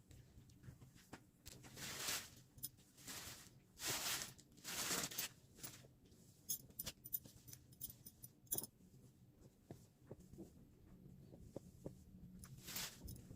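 Plastic parcel packaging and dress fabric being handled: several rustling swishes over the first few seconds, then a run of light clicks and taps, and one more rustle near the end.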